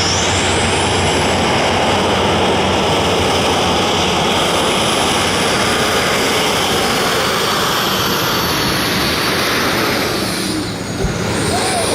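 Light limited super stock pulling tractor's turbocharged diesel engine at full throttle: a loud, steady roar with a high turbo whine that rises at the start. The sound dips briefly about ten and a half seconds in, then picks up again.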